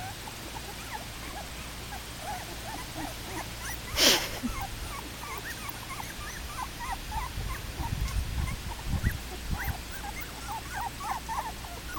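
Three-to-four-week-old Welsh terrier puppies whimpering and squeaking, many short high cries one after another. A brief loud rustle about four seconds in, and a few low thumps near eight to nine seconds.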